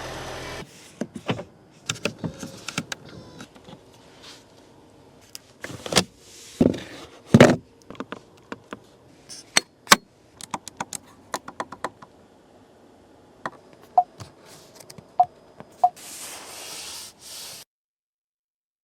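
A string of sharp clicks and taps with a few heavier thumps, like things being handled or shut, and a short hiss near the end.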